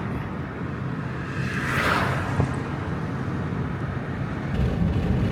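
Steady low rumble of a running vehicle, with a rushing noise that swells and fades about two seconds in.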